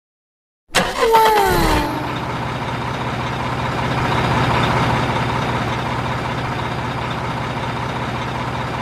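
Dump truck engine running steadily, cutting in abruptly after silence with a short falling whine in its first second.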